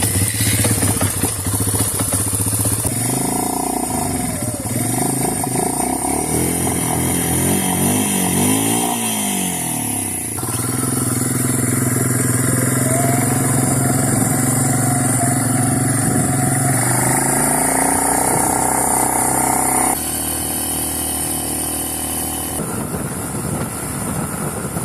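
ATV engines running, revving up and down. The engine pitch rises and falls between about 3 and 10 seconds in, then holds steadier, and the sound changes abruptly about 20 seconds in.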